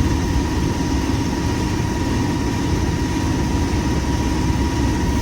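Diesel train engine running steadily, heard from inside the driving cab, with a steady high-pitched whine over the low rumble.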